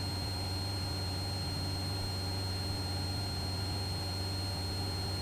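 Cessna 172's engine and propeller droning steadily in flight, a constant low hum with a faint steady high-pitched whine above it.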